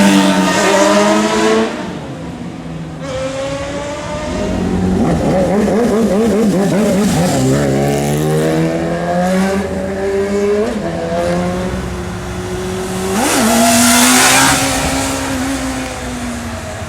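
Several sport motorcycle engines revving and passing, their pitch climbing under acceleration and dropping as each goes by, often overlapping. The loudest pass comes about 13 to 14 seconds in.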